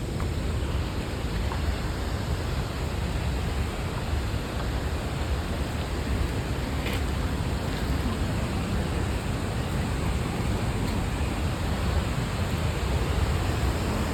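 Steady, unbroken rushing of a monsoon-swollen waterfall, heaviest in the deep low end.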